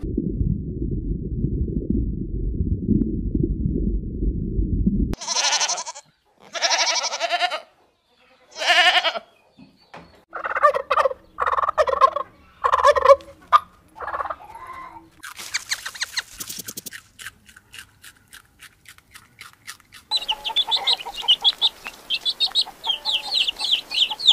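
A string of separate farm-animal sounds, mostly poultry-like calls. A dense low rumble fills the first few seconds. Then come several short calls with gaps between them, a quick run of clicks, and many rapid high calls near the end.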